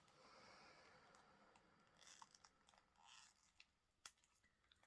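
Near silence, broken by faint crinkles and a few small clicks of small plastic bags of diamond-painting drills being handled.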